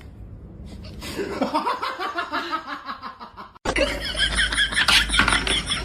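People laughing in bursts. A little over halfway through, the sound cuts abruptly to a louder recording with a steady low hum under more laughing.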